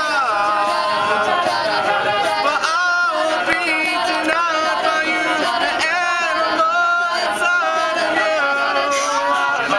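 A cappella group singing a pop song in several parts, with a lead line gliding over sustained backing voices and a steady high ticking beat on top.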